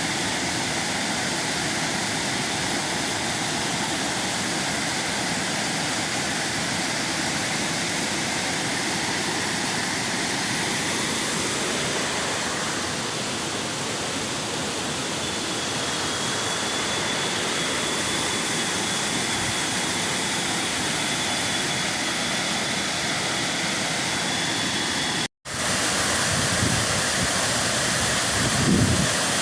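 Waterfall: the steady rush of water falling and splashing.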